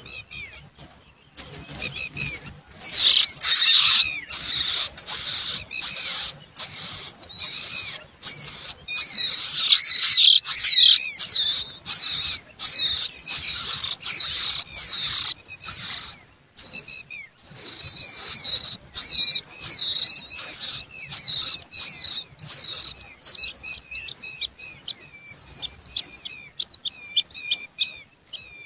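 Gouldian finches chirping in dense, rapid bursts of high calls with short breaks. The calls thin out to separate chirps in the last few seconds.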